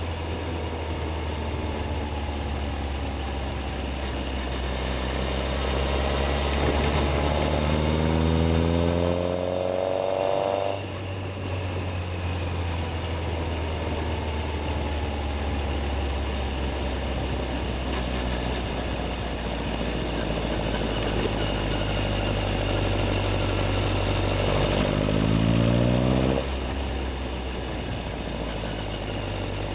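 Yamaha XJR1300's inline-four engine running at low revs, with two pulls of acceleration, about a third of the way in and again near the end, each rising in pitch and then dropping off suddenly as the throttle is shut.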